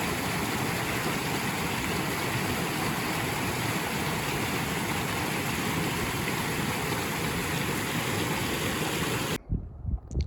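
A steady rushing noise that cuts off abruptly about nine seconds in, followed by a couple of short knocks.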